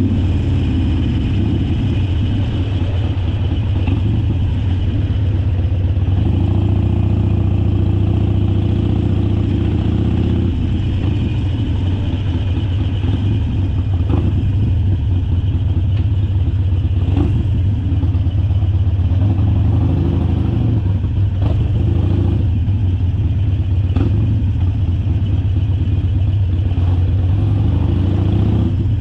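Harley-Davidson Sportster Forty-Eight's 1200 cc air-cooled V-twin running at a fairly steady low pitch, with a few brief clicks now and then.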